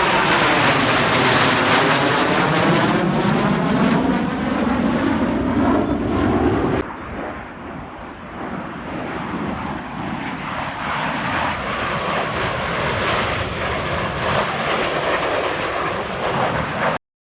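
F/A-18 jet engines passing close by, with a sweeping tone that falls and then rises as the jet goes past. Near the middle it gives way abruptly to quieter, steadier jet noise, which cuts off suddenly near the end.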